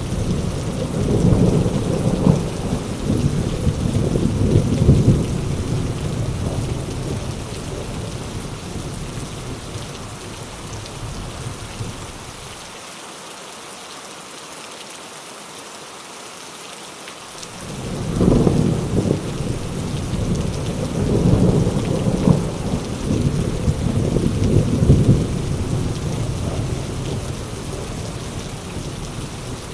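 Heavy rain falling steadily with long rolls of thunder rumbling through it. The thunder dies away about halfway through, leaving rain alone for a few seconds, then a new roll builds in and slowly fades.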